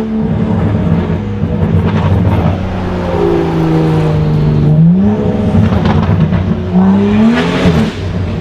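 Straight-piped, tuned BMW M135i's turbocharged three-litre straight-six exhaust at low speed: the note sags slowly, then rises in two short blips of throttle, about five and seven seconds in, the second dropping back sharply.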